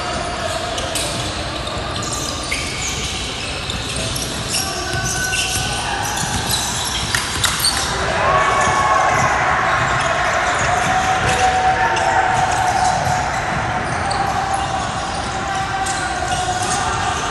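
Basketball game sounds echoing in a gym: a ball bouncing on the court, short squeaks, and players and spectators calling out, louder for a few seconds in the middle.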